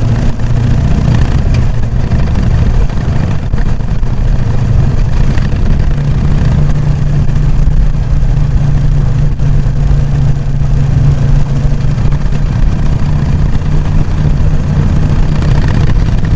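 Stock exhaust of a Harley-Davidson Sportster XL883N Iron's air-cooled 883 cc V-twin running steadily, its low beat rising a little in pitch through the middle and settling back near the end.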